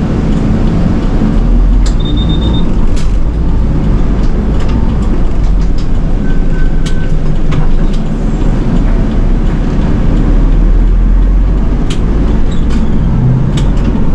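Nishitetsu city bus running along the road, heard from inside the cabin: a steady low engine and road rumble with scattered rattles and clicks. A short high beep sounds about two seconds in, and a brief lower pulsed beep comes about six to seven seconds in.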